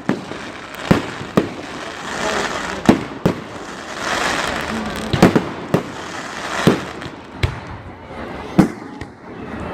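Fireworks display: aerial shells going off in a string of sharp bangs about a second apart, around ten in all, with stretches of crackling hiss between them.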